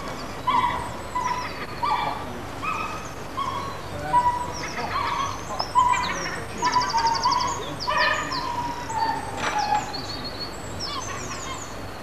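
Birds calling over and over: a string of short, pitched calls, some bending up or down, with a brief rapid rattling call about halfway through.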